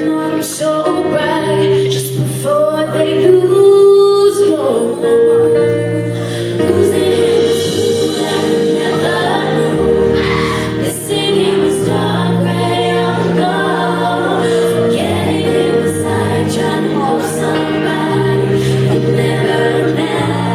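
Female vocal group singing a pop song in harmony over steady held-note instrumental accompaniment.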